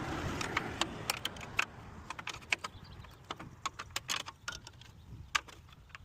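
Hand work with a wrench on the car's bolts and trim: a brief scraping rustle, then scattered sharp metallic clicks and clinks at irregular spacing.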